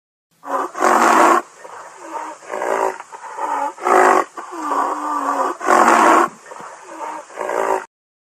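A big cat roaring and growling: three loud roars about a second in, around four seconds and around six seconds, with lower growls between, cutting off suddenly near the end.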